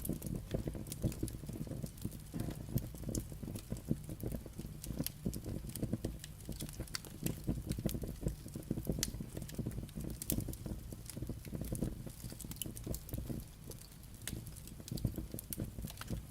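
Burning firewood crackling and popping, with many irregular sharp snaps over a low rumble of the flames.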